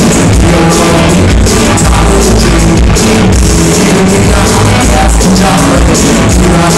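Loud live band music played at a sound check, running steadily throughout.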